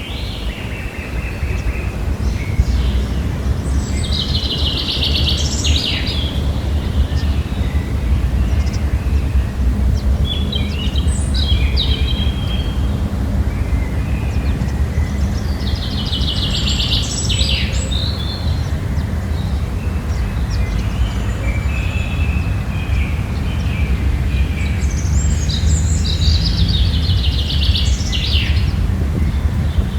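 A songbird sings a short, trilled phrase about every six seconds, four times in all, over a steady low rumble.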